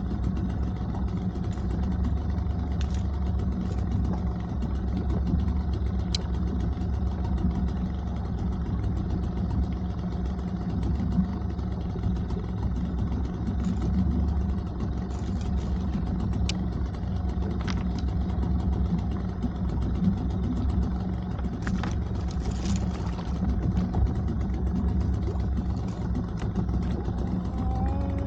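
Small boat's outboard motor running at a steady speed, a continuous low drone.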